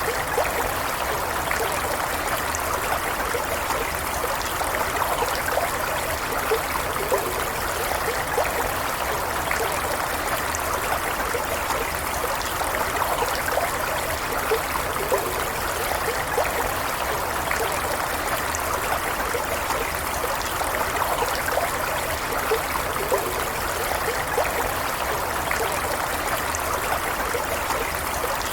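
A small stream running steadily over stones, a continuous rush of flowing water with small gurgles and splashes in it.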